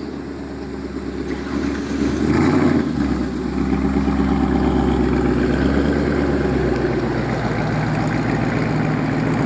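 Idling V8 Mustang engines. The engine sound builds over the first couple of seconds, swells briefly, then settles into a steady low idle.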